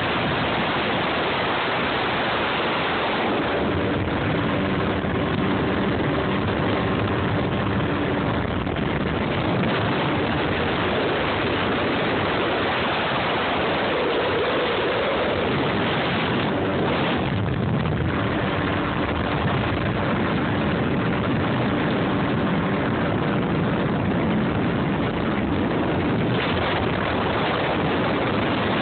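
Jet ski engine running on the water, heard under a steady rush of water and wind noise on the microphone.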